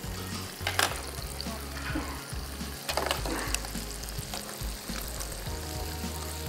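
Chicken nuggets sizzling steadily in shallow oil in a frying pan, with a few clicks of metal tongs against the pan as they are turned.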